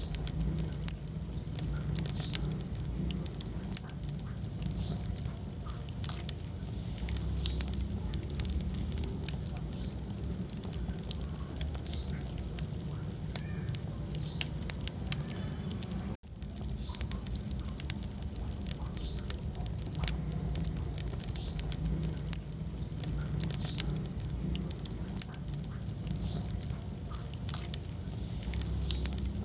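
Wood fire crackling in a fireplace: frequent sharp pops and snaps over a steady low rumble of the flames. The sound drops out for a split second about halfway through.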